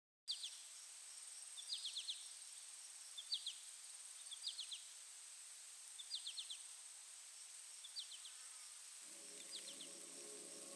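Faint outdoor ambience: a bird giving repeated short bursts of three or four quick high notes, about every second and a half, over a steady high-pitched insect drone. Soft music fades in near the end.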